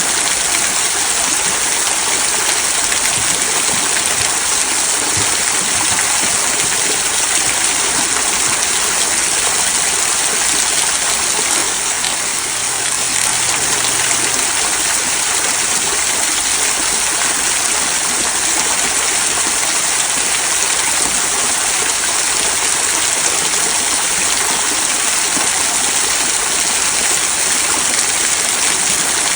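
Small waterfall trickling over moss-covered rocks into a stream, giving a steady, even splashing and babbling of water.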